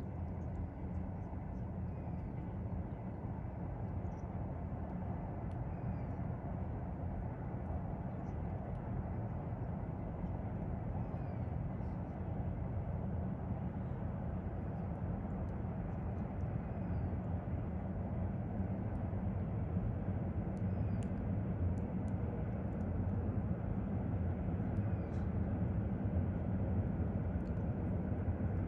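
Low, steady rumble of a distant train that slowly grows louder, with faint high chirps and ticks above it.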